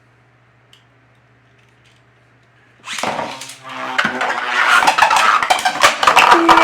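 Faint hum and a few small clicks, then about three seconds in a Beyblade launch with a short whirring sound, followed by loud, rapid clattering as 3D-printed Beyblades spin and collide in a plastic stadium.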